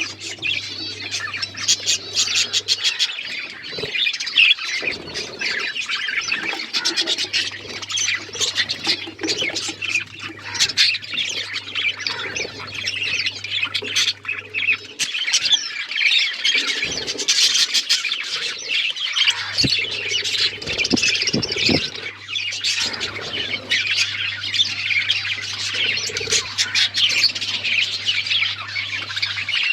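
Pet budgies and lovebirds chirping, many quick calls overlapping with no let-up. A low steady hum comes and goes underneath.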